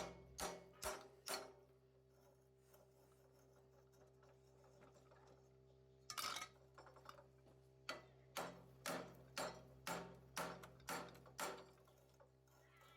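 Rhythmic hand scraping or brushing strokes on metal, about two a second, in two runs with a pause between them and one louder stroke just after halfway, over a faint steady hum.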